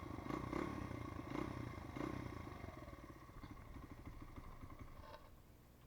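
Honda CRF100F's small four-stroke single-cylinder engine running roughly just after a cold start, its firing slowing and fading toward the end. The rough idle comes from a nearly empty fuel tank, as the owner believes.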